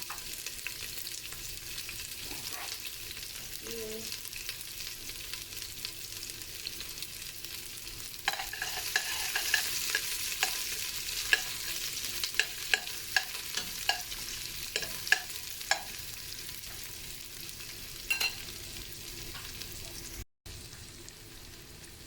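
Garlic and onion sizzling in hot cooking oil as they are sautéed, with a steady hiss. From about eight seconds in, a cooking utensil stirs and knocks against the pan in a run of sharp clicks.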